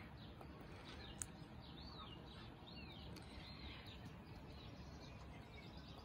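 Faint bird chirping: a run of short, arching notes repeated between about one and a half and four seconds in, over a low steady background rumble, with one brief click just after a second in.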